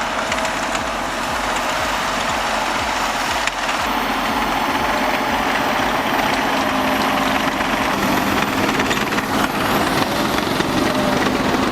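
A snow-clearing machine's engine running steadily under a dense, even rushing noise.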